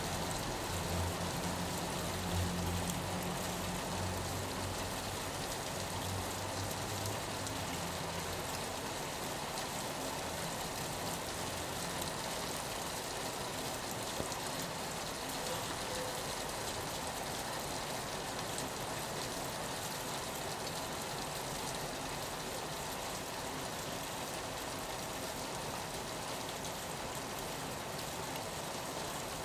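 Steady rain pattering on a window, an even dense hiss that holds at one level. A low hum sits under it for the first several seconds, then fades out.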